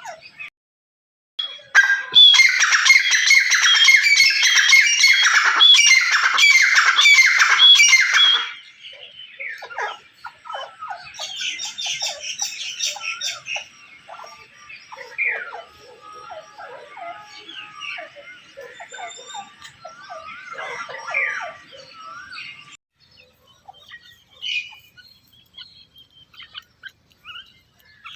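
Grey francolin calling loudly, a fast run of repeated shrill notes about two a second, which stops after several seconds. Fainter, scattered bird chirps follow.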